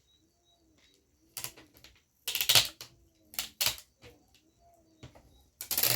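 Several short, crackling bursts of clear adhesive tape being pulled and handled, the loudest about halfway through and another near the end. Pigeons coo faintly in the background.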